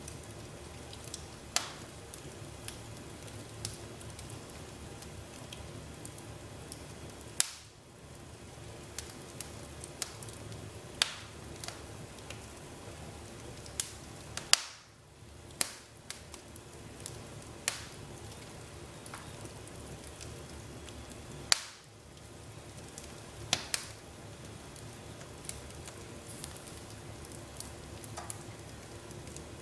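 Wood fire crackling in a fireplace: a steady low hiss broken by sharp, irregular pops, with the loudest snaps about 7, 15 and 22 seconds in.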